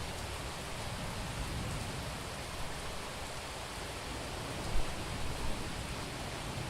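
Heavy summer rain falling steadily on a city street, an even hiss of water, with one brief low thump a little past the middle.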